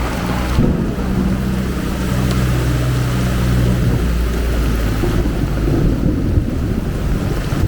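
Heavy rain falling, with a motor vehicle's engine running close by. Its low hum is strongest for the first four seconds or so, then fades under the rain.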